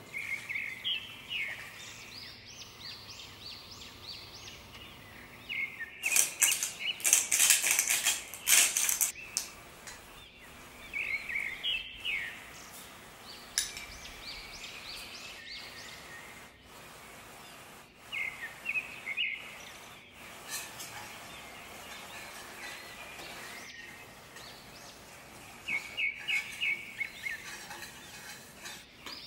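Small birds chirping in quick runs of rising notes, repeated every few seconds. About six seconds in comes a louder hissing, crackling noise that lasts about three seconds.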